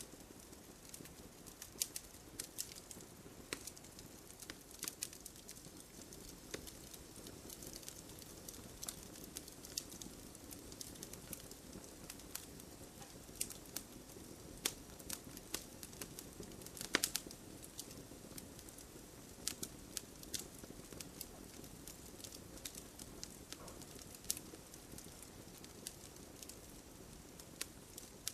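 Wood campfire crackling: irregular sharp pops and snaps over a soft, steady hiss of burning, with a few louder pops, the loudest about 17 seconds in.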